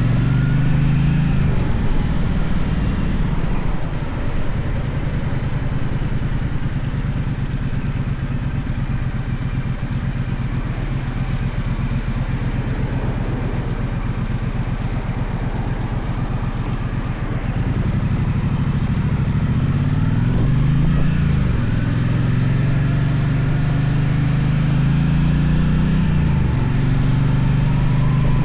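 Gaokin GK1200 motorcycle engine running while riding, the revs falling and rising with throttle and gear changes, over a steady rush of road and wind noise.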